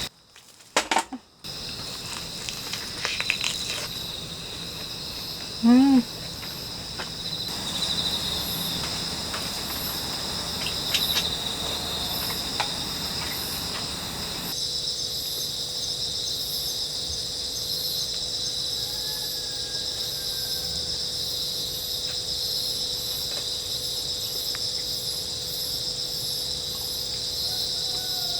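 Insects chirring in a steady, high, continuous trill. The background shifts abruptly at a few points, and a brief louder sound comes about six seconds in.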